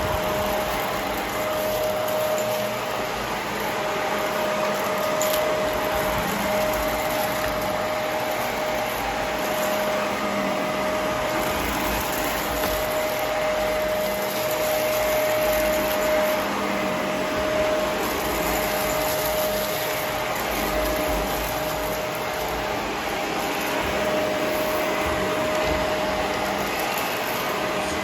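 Vacuum cleaner running steadily while vacuuming: rushing air under a steady motor whine, with fluctuating low rumble as the head moves.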